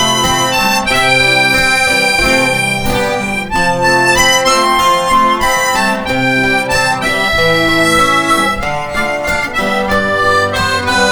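Instrumental break in a live acoustic-guitar band song: acoustic guitars strum the chords under a sustained melody line, with no singing.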